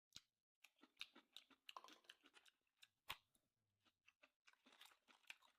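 Faint chewing of sushi: soft, scattered mouth clicks and small crunches, the sharpest about one and three seconds in.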